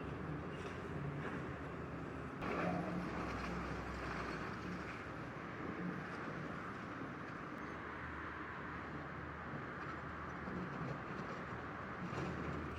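Heavy construction equipment engines running steadily, with a single louder knock about two and a half seconds in.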